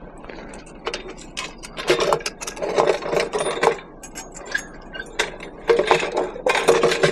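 Loose scrap metal pieces clattering and clinking as they are handled and sorted, a busy run of knocks and scrapes that starts about a second in and comes in bursts.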